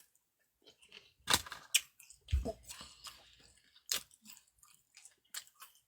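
A person eating close to the microphone: irregular chewing, crunching and wet mouth smacks, with a few louder bites.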